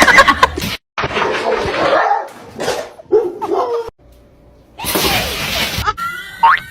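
A dog's vocal sounds in a string of short clips broken by abrupt cuts, with a run of quick rising chirps near the end.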